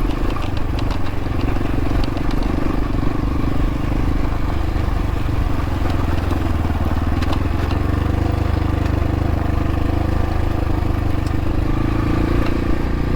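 Xpro Templar X dirt bike's engine running at a fairly steady speed while riding, with a few light clicks over the top.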